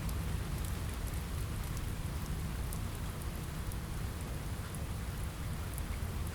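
Steady rain falling on a window, with a deep low rumble beneath it and scattered small sharp ticks throughout.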